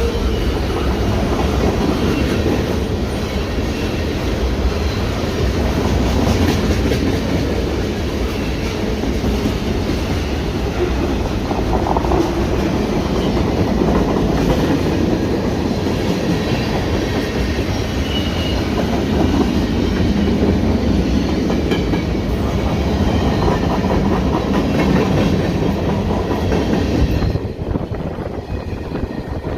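Freight cars of a CN freight train rolling past, the steel wheels clacking steadily over the rail joints. The sound drops away sharply a couple of seconds before the end.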